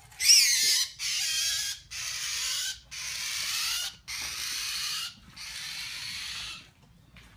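Trapped birds giving six harsh, raspy calls in a row, each just under a second long, the first loudest and the rest slowly fading.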